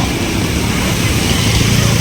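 A vehicle engine running steadily, its low hum growing stronger toward the end, over a constant hiss of rain.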